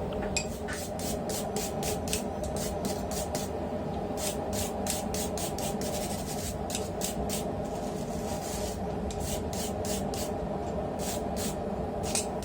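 Steel being scraped with a hand tool in quick, even strokes, about four a second, with a few short breaks, over a steady low hum.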